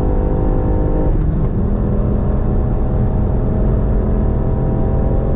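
Ford Puma ST's turbocharged 1.5-litre three-cylinder engine running steadily under road and wind noise while driving; about a second in its note changes and drops to a lower steady pitch.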